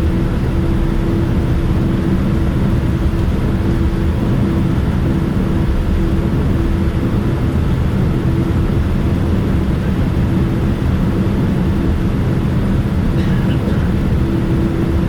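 Steady cabin noise inside a Boeing 787-9 airliner: the engines and airflow give an even, loud rumble with a constant hum running under it.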